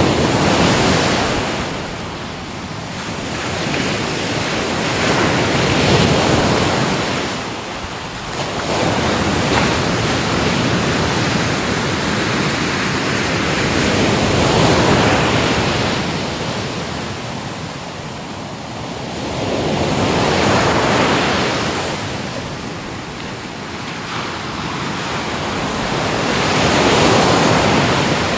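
Ocean waves breaking and washing up on a shore, each surge swelling and fading about every six to eight seconds.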